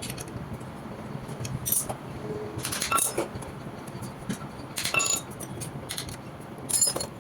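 A few sharp metallic clinks with short ringing tones, scattered over several seconds: metal tools and parts knocking against each other during a clutch plate repair, over a faint steady low hum.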